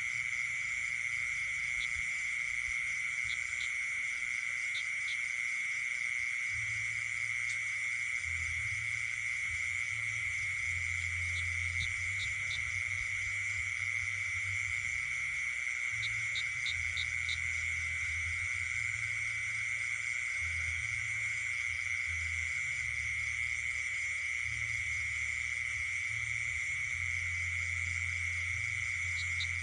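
Night chorus of frogs and insects: a steady high-pitched insect drone with higher trilling layers over it, and short runs of three to five quick chirps every few seconds.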